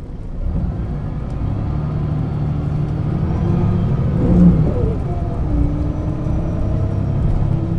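Setra S 315 UL bus's diesel engine pulling under load with the pitch climbing. About four and a half seconds in, the ZF gearbox shifts up: the pitch drops, then rises again.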